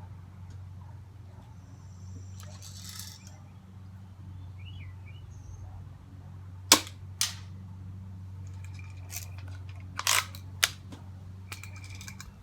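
Daisy BB gun firing once with a sharp crack about two-thirds of the way in, followed by a smaller click and, later, a few more clicks and rattles of the gun being handled. A steady low hum runs underneath.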